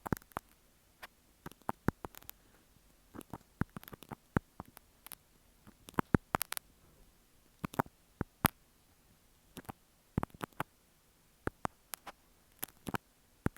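Marking pins (sewing pins) tapping and scratching on earphone microphones: irregular, crisp close-up clicks, a few a second at uneven loudness.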